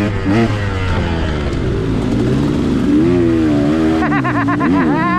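2021 KTM 125XC two-stroke dirt bike engine revving up and down as the throttle opens and closes. About four seconds in, a second, higher engine note rises and falls over it.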